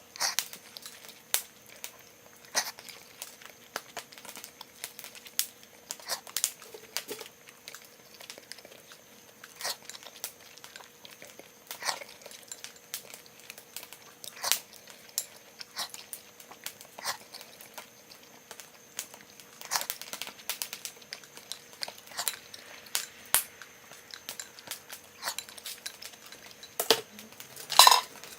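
Small wood fire in a Firebox stove crackling, with irregular sharp pops and one louder cluster of pops near the end, over a faint steady hum.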